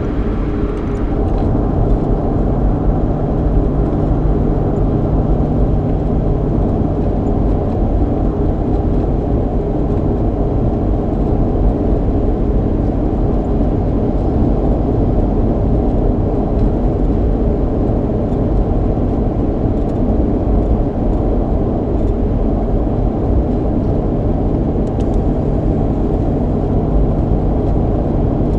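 Road noise and a steady engine hum inside the cabin of a Ford Mustang with a 3.8-litre V6, driving along at an even pace. A low rumble of tyres dominates, with the engine's drone underneath.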